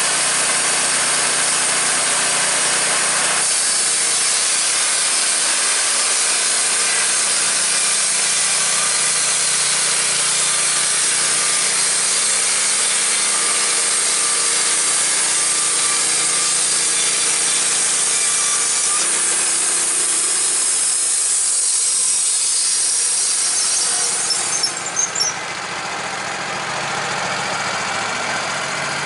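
A woodworking power tool running steadily and cutting wood, its pitch shifting a couple of times as the load changes. It stops about 24 seconds in, with a few clicks, and a quieter steady sound is left after it.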